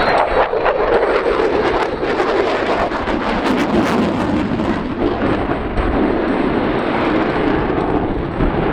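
Loud jet noise from an F-22 Raptor's twin Pratt & Whitney F119 turbofan engines during a display manoeuvre, a steady rumbling roar with crackle through it.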